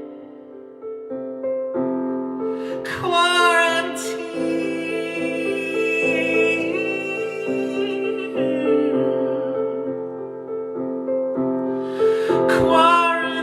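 Piano playing slow held chords, with a singing voice sliding in on long notes twice.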